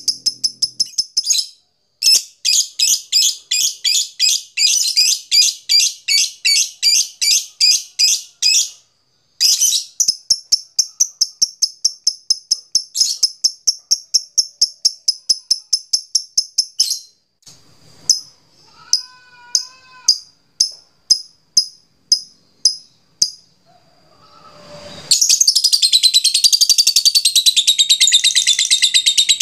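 Lovebird chattering (ngekek): long runs of rapid, shrill repeated notes with short breaks, a slower series of separate clicks in the middle, then a dense unbroken chatter near the end.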